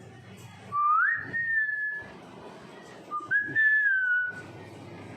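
Pet parrot whistling twice: each whistle sweeps up quickly and then holds a clear note for about a second, and the second one sags slightly at the end.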